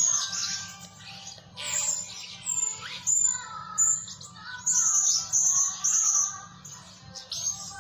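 Blue-crowned hanging parrots calling: a string of shrill, high-pitched chirps, with a run of short repeated notes about halfway through, over a faint steady low hum.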